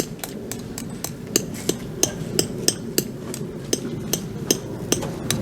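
A hammer striking repeatedly at an even pace, about three sharp, slightly ringing blows a second.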